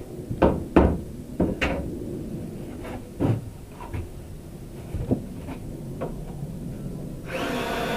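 A few sharp wooden knocks and clunks as boards are handled and tapped into place, then near the end a Ryobi cordless drill whirs for about a second driving a screw.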